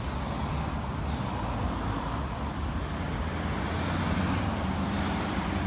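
Steady low engine rumble of cars moving slowly, with road traffic noise.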